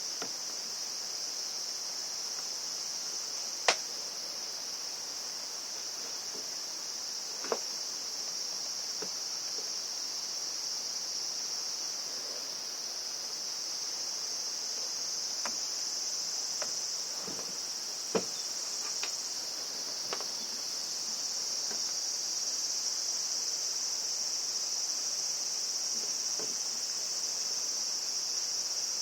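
Steady high-pitched chorus of insects trilling, with a few sharp clicks and knocks scattered through it, the loudest about four, seven and eighteen seconds in.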